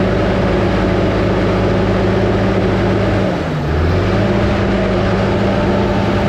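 Diesel engine of an 850 crawler dozer running steadily at working speed, its pitch sagging for about half a second some three and a half seconds in, then picking back up.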